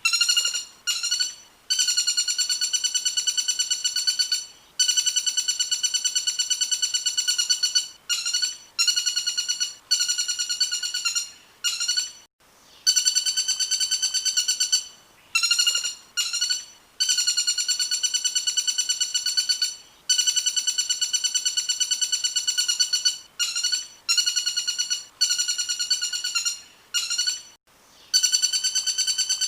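A recorded songbird call sung as a rapid trill on one steady, high pitch, repeated in phrases from about half a second to three seconds long with short breaks between them: a masteran track used to teach competition songbirds.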